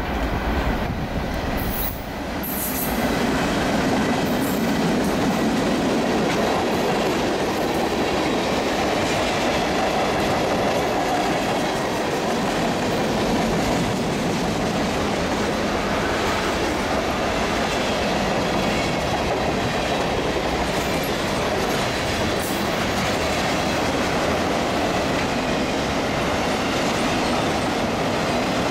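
A Norfolk Southern freight train passing close by: its two GE C44-9W diesel locomotives go by with a low rumble in the first couple of seconds. A long string of freight cars then rolls past with a steady rumble and clickety-clack of steel wheels on the rails.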